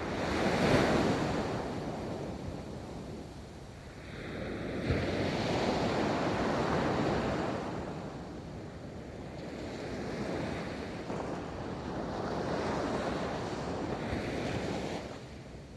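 Ocean waves rolling onto a beach: several surges of surf, each swelling and fading over a few seconds, the first the loudest.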